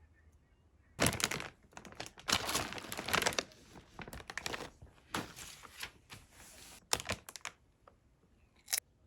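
Rustling and crinkling of something being handled, perhaps plastic or paper, in irregular bursts starting about a second in, with a few sharp knocks among them.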